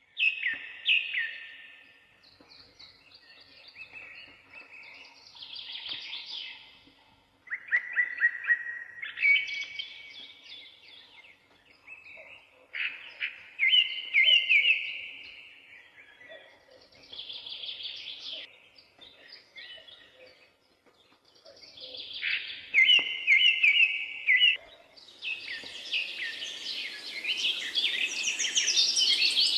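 Songbirds singing, short whistled and trilled phrases a few seconds apart. Near the end several birds overlap into a denser chorus over a steady high hiss.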